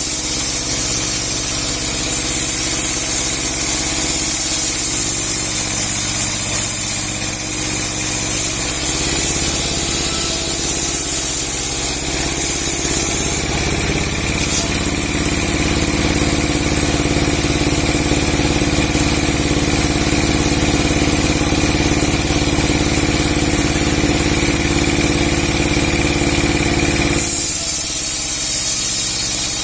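Large 30 hp log-sawing machine with a 60 cm steel blade running steadily: a constant machine drone with a high hiss over it. The tone changes abruptly near the end.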